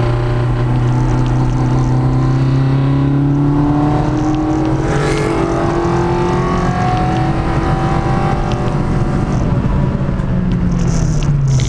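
Peugeot 106 track car's engine on Jenvey individual throttle bodies, heard from inside the cabin under load. The engine note climbs slowly for the first several seconds, holds steady, then dips briefly and climbs again near the end.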